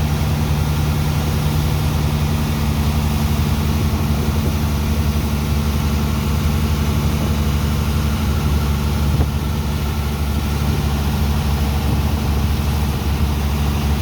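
Heavy engine of a sand dredger pump running steadily at constant speed, a deep hum over a steady hiss.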